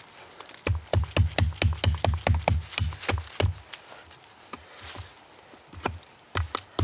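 Wood being worked by hand with a tool: quick, regular knocking strokes, about six a second, in a run of some three seconds, then a pause and a second run starting near the end.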